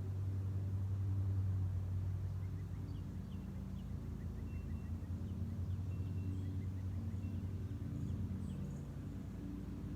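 A low, steady engine hum, a little louder in the first couple of seconds. Faint, short bird chirps come over it from about three seconds in.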